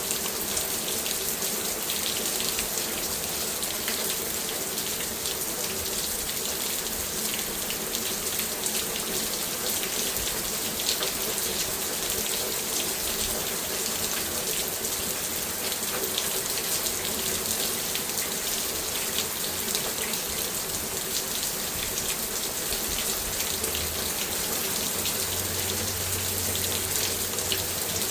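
Steady rain falling on a garden, a dense continuous patter of many small drops.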